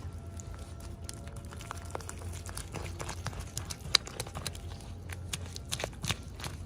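Hands unboxing small plastic toys: irregular light clicks, taps and crinkles of plastic packaging being handled, over a steady low hum.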